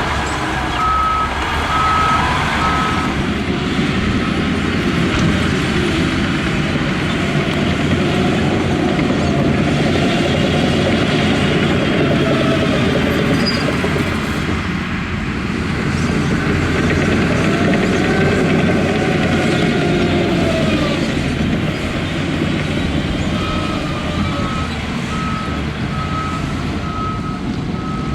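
Heavy diesel engines of a bulldozer and dump truck working, the engine pitch rising and falling as they load up. A reversing alarm beeps in a steady series for a couple of seconds near the start and again through the last few seconds.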